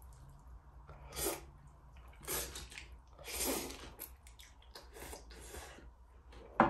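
Eating sounds: three short slurps of bibim-myeon noodles about a second apart, with small wet mouth clicks of chewing between them. A sharp knock near the end.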